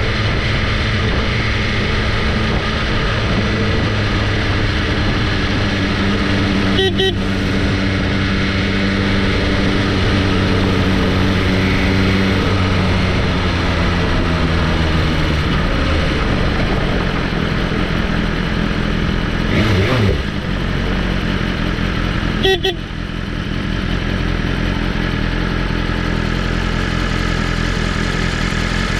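Motorcycle engine running steadily under way, its pitch dropping partway through as it slows. Two short sharp clicks come through, one about a quarter of the way in and one past the middle.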